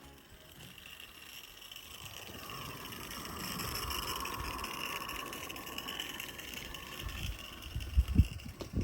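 Small garden-railway locomotive and its train running past on the track, the running noise rising to a peak about four seconds in and then fading away. A few dull thumps near the end, louder than the train.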